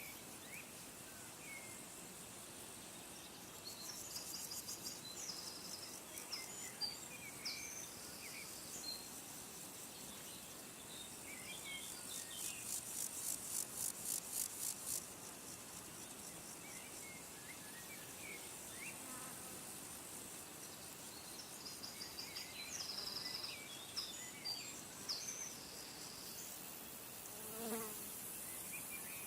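Outdoor wildlife sounds: thin, high-pitched chirps and short trills come and go, with a fast, evenly pulsing high run in the middle.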